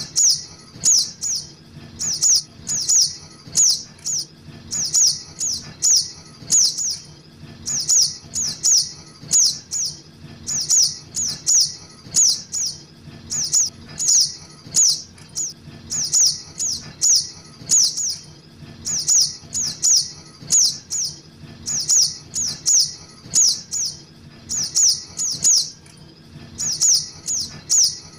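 Juvenile little spiderhunter (sogok ontong) calling: sharp, high chips, each dropping quickly in pitch, given in quick clusters of two to four and repeated about once a second.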